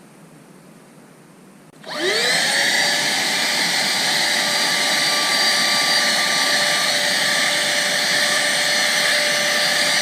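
Cordless handheld vacuum switched on about two seconds in. Its motor whine rises quickly in pitch, then settles into a steady, loud run.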